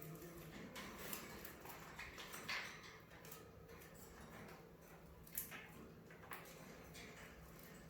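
Faint budgerigar chirps mixed with scattered short clicks and taps. The sharpest click comes about five and a half seconds in.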